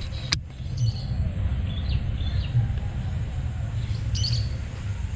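Small birds chirping now and then over a steady low rumble, with one sharp click just after the start.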